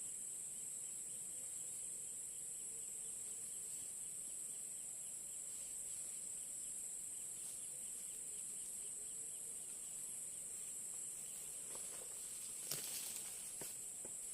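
Insects in a steady, high-pitched chorus, with a brief rustle and a few clicks near the end.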